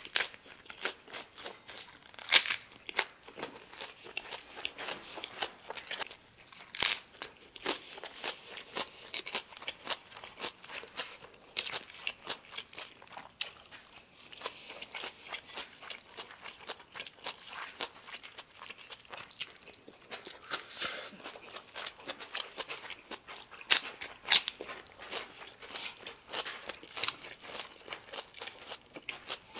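Close-up eating sounds: crisp crunching bites and chewing of raw napa cabbage leaves. A handful of loud crunches stand out, two of them close together a little past two-thirds through.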